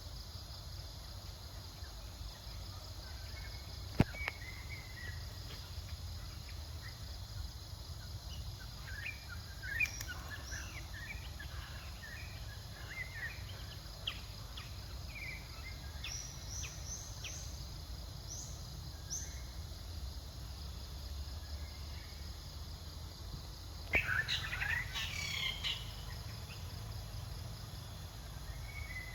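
Outdoor forest ambience: scattered short bird chirps over a steady insect drone and a low background rumble. There is a sharp click about four seconds in, and a louder, shrill burst of calls near the end.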